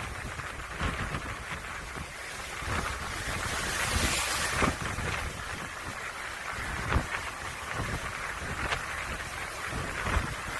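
Typhoon-strength gale buffeting the microphone in gusts: a low rumble with sharp gust hits, and a rushing swell about four seconds in.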